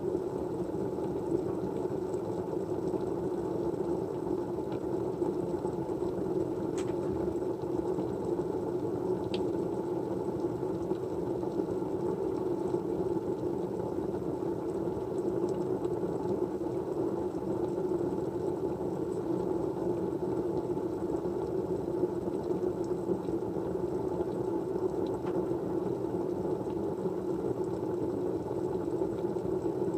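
Steady, low rushing white noise, with a few faint clicks scattered through it.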